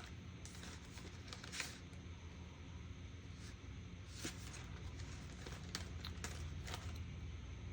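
Light rustling and scattered small clicks of art supplies being handled and searched through, over a steady low hum.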